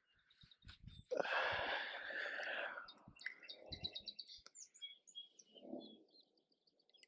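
A songbird chirping in quick runs of short high notes, outdoors by the river. Before the birdsong, a louder rushing noise starts sharply about a second in and lasts under two seconds.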